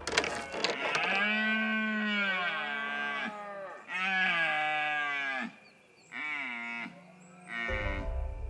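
Red deer stag bellowing in the autumn rut: a series of long, drawn-out roars, a couple of seconds each, several sagging in pitch at their ends, the stag's call to hold his harem against rivals.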